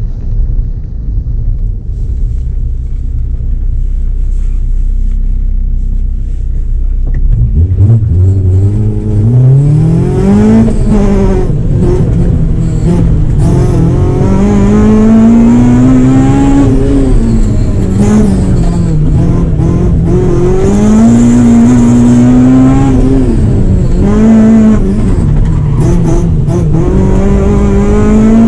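Honda Civic EK4's stock B16A2 1.6-litre four-cylinder VTEC engine with an open exhaust and 4-2-1 header, heard from inside the cabin. It idles steadily for about eight seconds, then launches and revs hard, its pitch rising and falling again and again as the car drives the slalom course.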